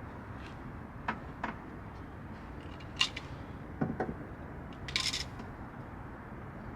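A handful of short, sharp clicks and knocks from hands working on car trim and fittings, over a steady low background rumble.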